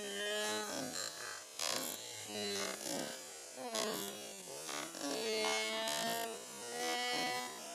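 Miniature steam engine running fast with a buzzing whir, its pitch wandering up and down as its speed changes.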